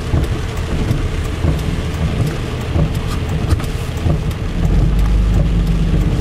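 Heavy rain pelting the windshield and roof of a pickup truck cab, with many sharp drop ticks over a steady hiss. A deep low rumble runs underneath and grows louder about four and a half seconds in.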